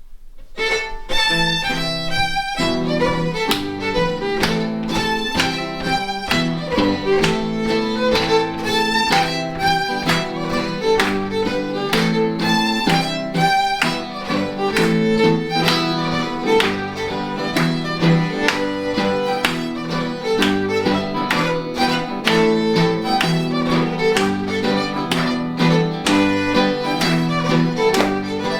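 Fiddle playing a Scottish tune with electric guitar accompaniment, starting about half a second in.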